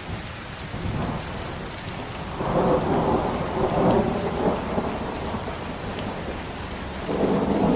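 Steady rain with rolling thunder, the rumble swelling about two and a half seconds in and again near the end.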